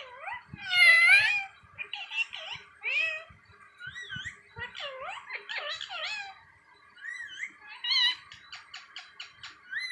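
Pet parrot chattering: a run of whistles, squawks and gliding chirps, with a loud screech about a second in and a quick string of short clicks near the end.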